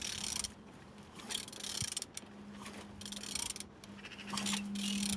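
Vauxhall/Opel Z12XEP 1.2-litre four-cylinder petrol engine idling, with a steady hum and mechanical ticking; the hum grows stronger about two seconds in, and there are bursts of hiss.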